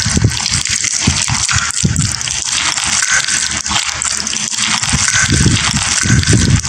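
A very loud, harsh hiss with low thuds pulsing about twice a second underneath: the deliberately loud noise of the video.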